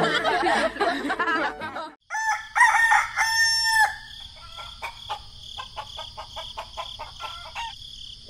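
Farmyard chicken sounds: clucking for the first two seconds, then a rooster crowing about three seconds in. After the crow comes a run of quick light ticks over a steady high-pitched drone.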